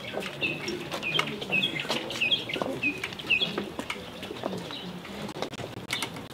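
A bird chirping: a quick series of short high notes, about two a second, for the first four seconds or so, with scattered clicks and knocks among them.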